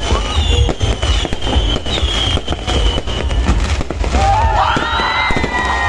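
Fireworks display: a dense run of cracks and bangs over a constant deep rumble, with high whistling tones gliding in pitch; a cluster of whistles rises and falls near the end.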